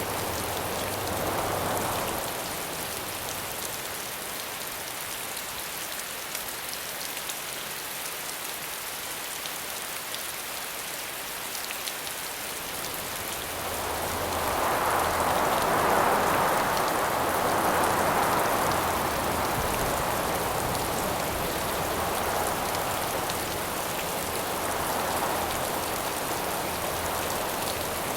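Steady rain falling, with wind rising in a gust about halfway through, loudest a few seconds after it begins, then easing slightly but staying up.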